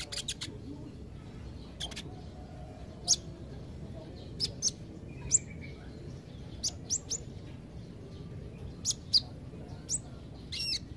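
Kolibri ninja, a sunbird, giving short, sharp, high-pitched chirps at uneven intervals, with a brief twittering run near the end, over a steady low background hum.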